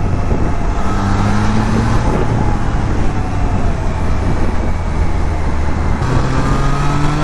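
Triumph Trident 660's inline three-cylinder engine running under way as the bike is ridden, with wind noise over it. About six seconds in the engine note drops and then climbs again, as at an upshift.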